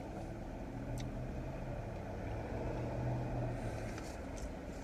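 Steady low hum of a car's engine, heard from inside the cabin, swelling slightly in the middle, with one faint click about a second in.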